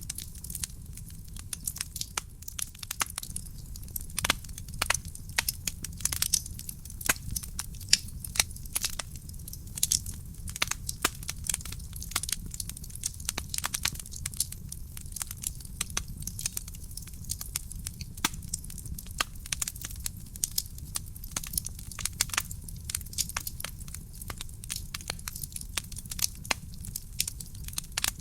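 Wood fire burning in a fireplace: constant irregular crackling and popping of burning logs over a steady low rumble of the flames.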